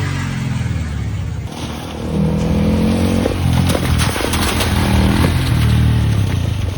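Hero Impulse 150's single-cylinder engine revving up and down as the dirt bike is ridden through mud, with clattering knocks from the bike over rough ground.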